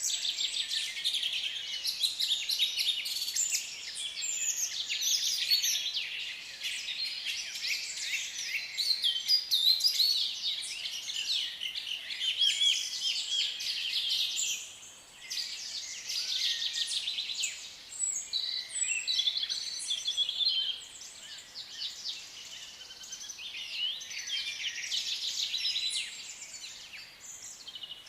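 A flock of African lovebirds chattering, with many high-pitched chirps overlapping almost without pause. There is a brief lull about fifteen seconds in.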